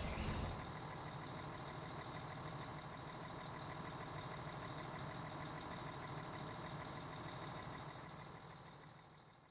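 Fire truck engine idling steadily, fading out near the end.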